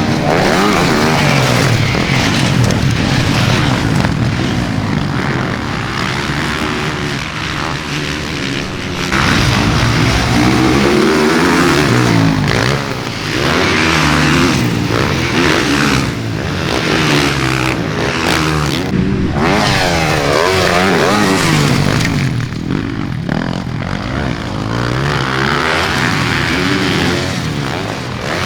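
Motocross dirt-bike engines revving up and down as riders race, the pitch climbing and dropping again and again, with more than one bike heard at times.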